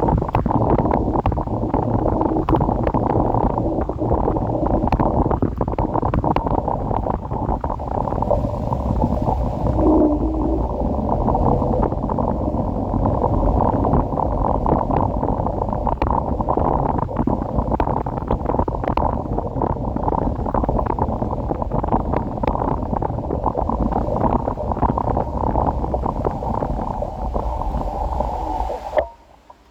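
Wind buffeting the microphone during a ride on an electric scooter: a steady, heavy rumble with scattered sharp ticks. It cuts off abruptly just before the end.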